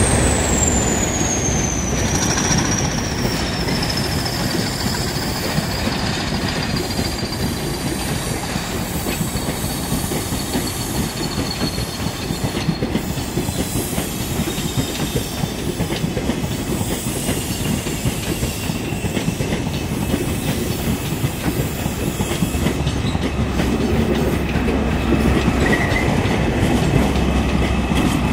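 A train of London Underground carriages hauled by British Rail Class 20 diesel locomotives rolling past at close range, with a steady rumble and clatter of wheels over the rails. A thin high whine falls slowly in pitch over most of this time, and the rumble grows a little louder near the end.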